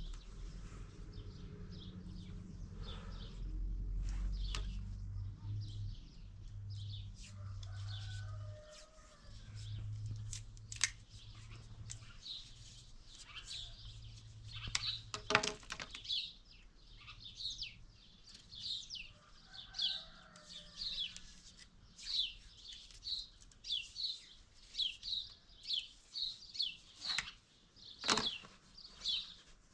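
A small bird chirping over and over, short high chirps about two a second that grow steadier through the second half. A low rumble underlies the first part, and a few sharp knocks sound along the way.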